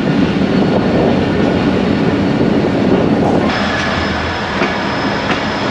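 KCR local passenger train running along the track, heard from aboard: a steady rumble of wheels on rail. A faint thin high tone joins about halfway through.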